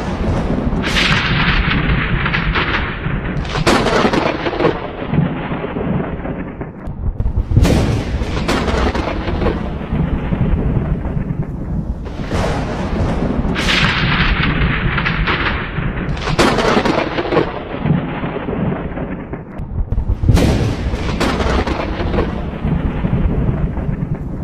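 Thunderstorm: steady rain with thunder claps every few seconds. Each clap opens with a sharp crack and trails off into a rolling rumble.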